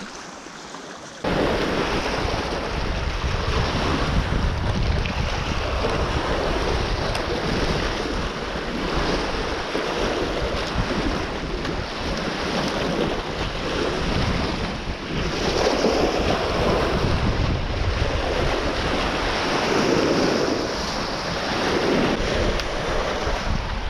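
Strong wind buffeting the microphone over choppy waves slapping around a small boat, starting abruptly about a second in.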